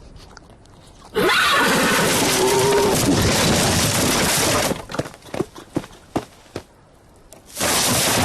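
Cartoon sound effects: a long, loud noisy crash-like sound with a wavering cry running through it, then a string of short clicks and knocks, and another loud burst near the end.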